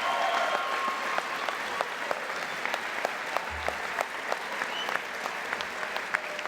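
Audience applauding: many hands clapping, the applause easing slightly and breaking into more distinct individual claps as it goes on.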